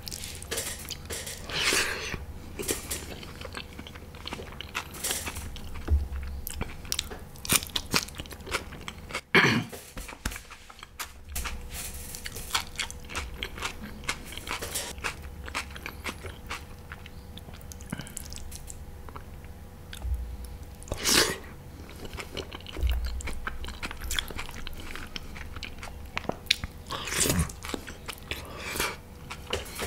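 A man chewing and biting food, with irregular sharp crunches and clicks.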